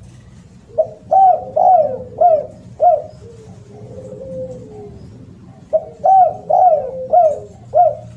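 Spotted dove (derkuku/tekukur) cooing loudly in two phrases, each a quick run of about five coos, with softer drawn-out coos in the pause between them. A faint steady low hum runs underneath.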